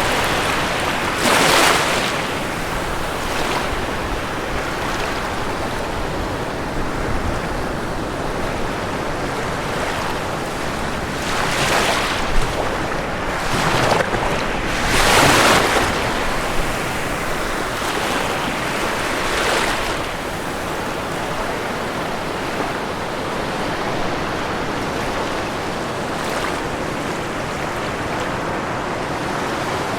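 Ocean waves breaking on a shore over a constant wash of surf, with louder crashes about a second in, around 12 and 15 seconds, and again near 20 seconds.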